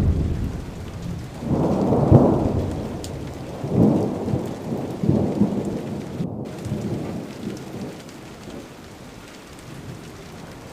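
Thunder rumbling in several rolling swells over steady heavy rain, dying down near the end.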